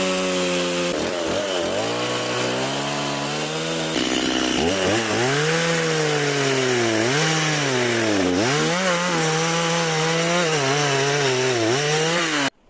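Stihl MS 180 two-stroke chainsaw cutting firewood into short pieces. Its engine note sags each time the chain bites into the wood and climbs back between cuts, several times over. The sound cuts off suddenly near the end.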